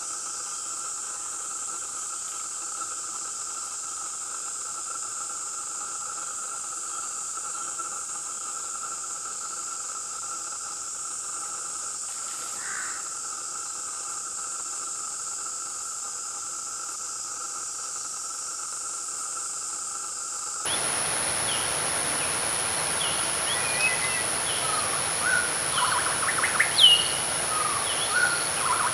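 A steady, even insect drone. About two-thirds of the way through it switches abruptly to a louder recording with a higher insect whine and birds chirping in short calls, the loudest ones near the end.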